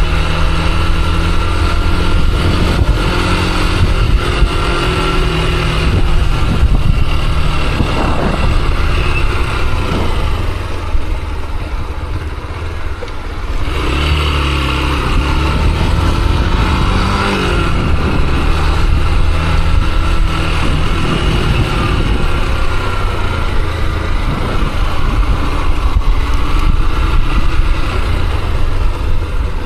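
Motorcycle engine running as the bike rides along, with road and wind noise over it. About a third of the way through it eases off for a couple of seconds, then picks up again.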